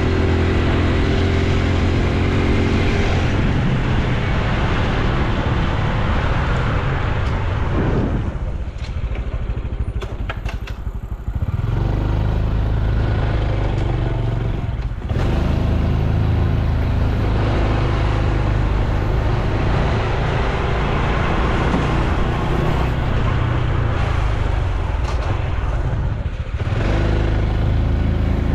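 Honda Super Cub C125's single-cylinder four-stroke engine and exhaust running steadily on the move, with wind and road noise. The engine note falls away for a few seconds about a third of the way in, then picks up again, and it dips briefly twice more.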